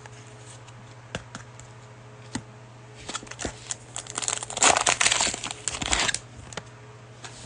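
A cellophane trading-card pack wrapper being torn open and crinkled, with a few clicks first and then a dense stretch of crackling in the middle that stops about a second before the end.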